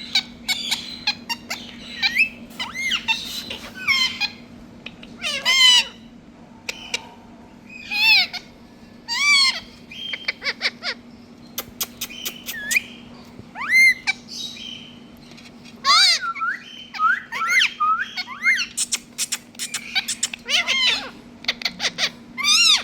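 Green parrots calling: an irregular string of loud, sharp squawks with quick clicks and chirps between them.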